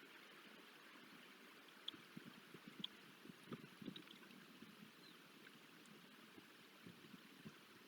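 Faint freezing rain: scattered drops and ice ticking and knocking close to the microphone over a steady hiss.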